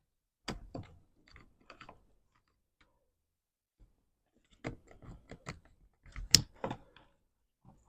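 Plastic clicks and rattles of the car door's window-switch control panel and its wiring connectors being handled and snapped into place, in two clusters of short sharp clicks with a pause between, the sharpest one near the end.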